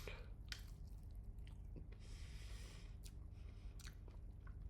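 A person chewing food with the mouth closed and breathing through the nose, with a few soft mouth clicks and a brief breathy hiss.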